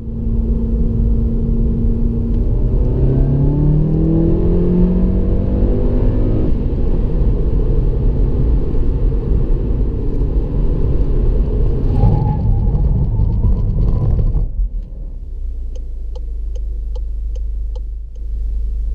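2015 Volkswagen Polo GTI's 1.8-litre turbocharged four-cylinder engine, held at steady revs for a couple of seconds, then climbing in pitch under hard acceleration, followed by a long stretch of loud engine and road rumble. About two-thirds of the way in it drops to a quieter steady rumble, with a short run of faint ticks near the end.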